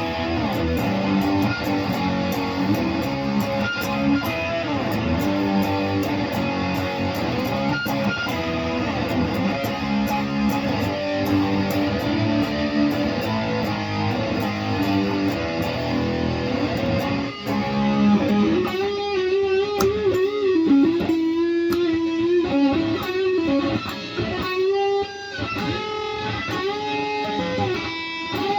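Guitar playing: full chords for most of it, then, from about eighteen seconds in, a single-note melody with bent and wavering notes.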